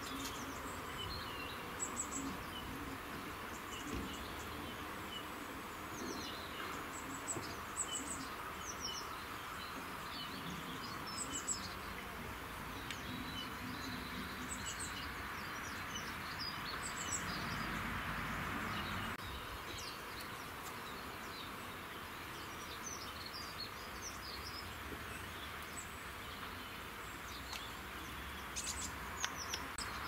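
Small birds chirping, with short high-pitched notes scattered through and a cluster near the end, over a steady background hiss.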